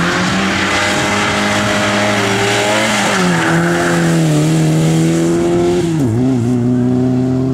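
A rally car engine running hard close by, its pitch dropping three times as the driver shifts or lifts off and then holding again. Hissing tyre noise, as if sliding on the stage surface, runs under it until near the end.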